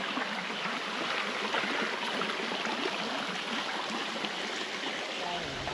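Water running steadily, as of a small stream.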